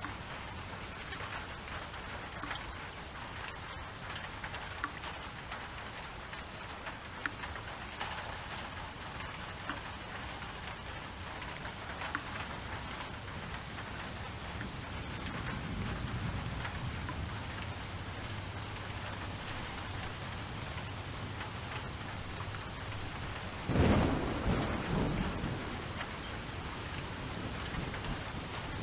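Steady rain falling, with a soft low thunder rumble about halfway through and a louder thunderclap near the end that rumbles away over a couple of seconds.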